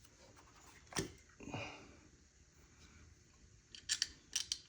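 Light clicks and taps from hard plastic and metal engine parts, likely the ignition coils being handled: one sharp click about a second in and a quick run of clicks near the end, with a short sniff in between.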